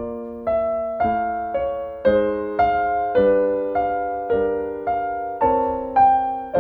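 Slow, gentle piano music: single notes and chords struck about twice a second, each left to ring and fade.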